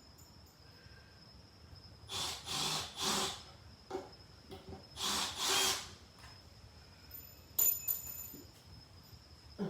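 Cordless impact driver run in short bursts, starting wood screws into lumber: three quick bursts, then a longer one, followed by a few sharp clicks.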